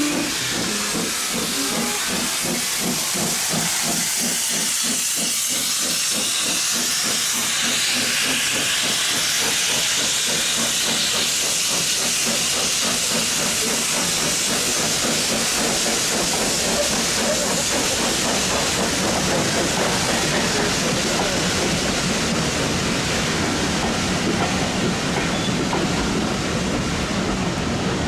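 Steam locomotive hissing steadily as it lets off steam, with a fast rattling rhythm lower down in the first half.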